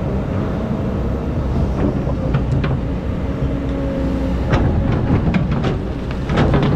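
Excavator's diesel engine running steadily while the bucket digs sand, with a run of metallic clanks and scrapes starting about two-thirds of the way through.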